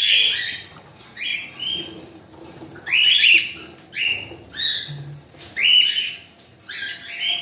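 A cockatiel calling over and over: short, loud calls about one a second.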